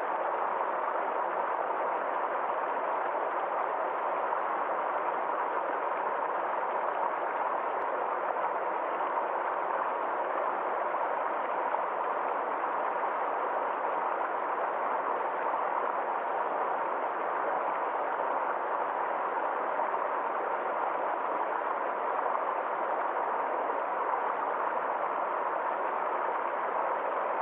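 Forest stream flowing steadily over rocks, a constant rushing of water with no change throughout.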